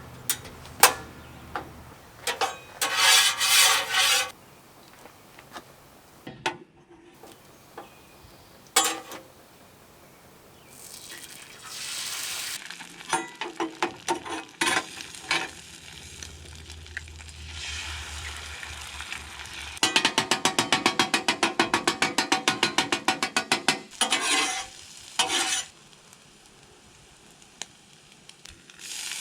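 Food frying and sizzling on a Blackstone flat-top griddle, with a spatula scraping and tapping on the cooking surface. About two-thirds of the way through comes a fast, even run of chopping taps, several a second, lasting a few seconds.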